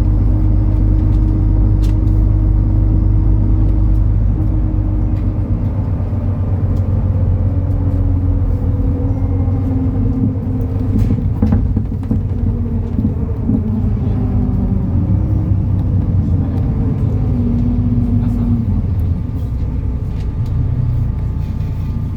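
MAN Lion's City NL293 city bus running: a steady, loud diesel rumble with engine and drivetrain tones that slide slowly down through the first half and shift in pitch again later on.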